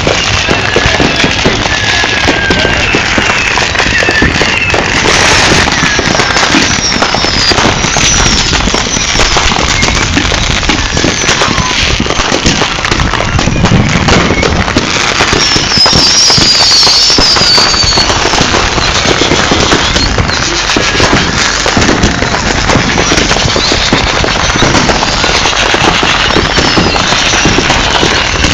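Consumer fireworks going off in a dense, continuous barrage of crackles and pops, with short whistling glides scattered through it.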